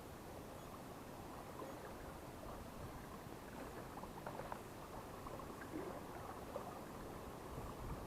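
Faint, muffled low wind noise buffeting the microphone in a strong gale, with scattered small ticks.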